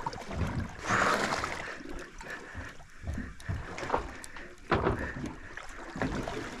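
Water splashing and sloshing against a boat's hull, with two louder surges, about a second in and just under five seconds in.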